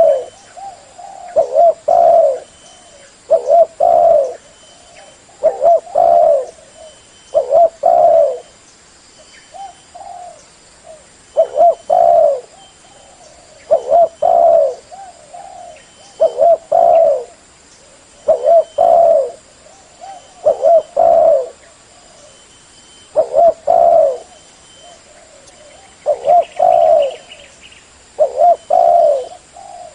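A derkuku dove cooing over and over: short phrases of two or three low, rounded coos, repeated about every two seconds.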